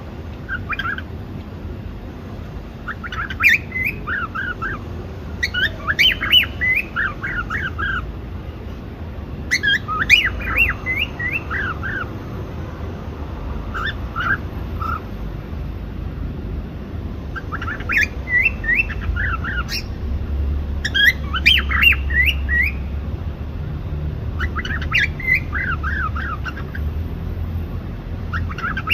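Cockatiel chirping in bursts of quick notes that rise and fall in pitch, a new burst every few seconds, over a low steady hum.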